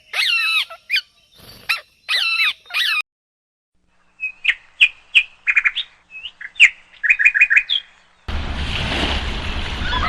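Birds calling: a few looping, warbled calls, then after a short gap quick runs of short, high chirps. About eight seconds in, a steady rushing noise starts.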